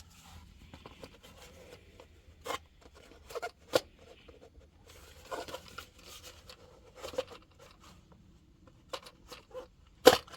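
Scattered clicks, taps and knocks of hand tools and small parts being handled at the car battery, with the loudest knock near the end.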